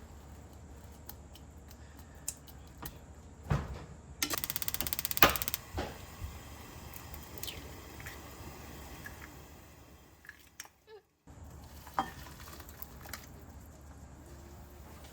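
Kitchen work sounds: scattered clinks and knocks of dishes and utensils being handled, with a rapid run of even ticking for about a second and a half about four seconds in.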